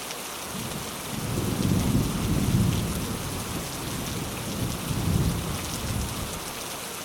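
Steady rain hissing, with a low thunder rumble rolling in about half a second in. The rumble swells twice and dies away before the end.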